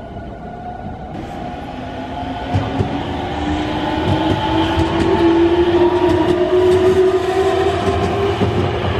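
Nankai 50000 series Rapi:t electric train running, its motor whine slowly rising in pitch and growing louder as it gathers speed, with clicks of the wheels over the rail joints.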